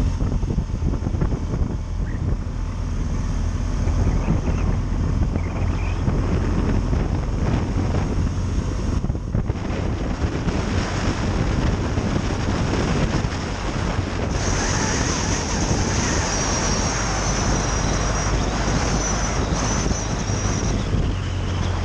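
Steady wind buffeting the microphone over a continuous low rumble. A thin high whine joins about fifteen seconds in and fades near the end.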